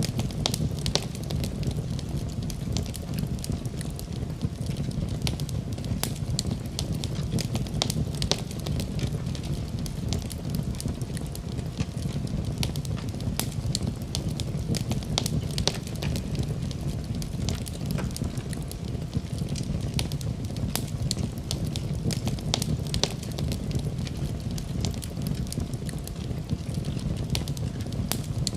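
Wood fire burning in a fireplace: a steady low rumble of the flames with frequent sharp crackles and pops throughout.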